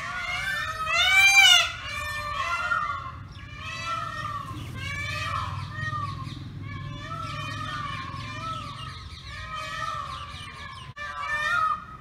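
Birds calling and chattering, many overlapping calls with no pause, with one loud rising-and-falling call about a second in.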